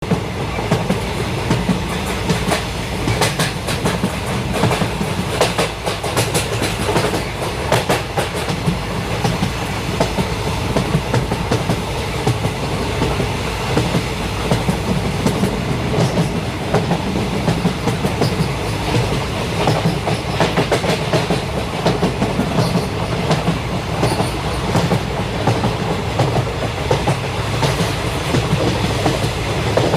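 Train running along the track: a steady rumble with repeated clickety-clack of the wheels over the rail joints.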